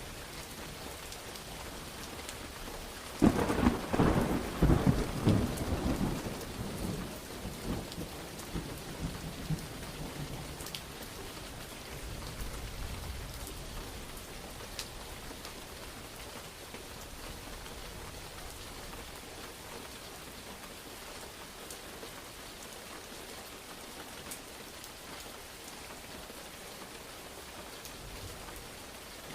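Steady rain with a thunderclap about three seconds in: a sudden loud crack followed by crackling rumbles that die away over several seconds. A fainter low rumble of thunder follows a few seconds later, while the rain goes on.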